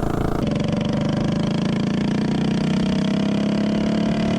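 Tillotson 212 single-cylinder mini bike engine on nitro fuel goes to full throttle about half a second in. It then holds a steady drone whose pitch climbs only slowly, which the rider takes to mean the 140 main jet is too small for the top end.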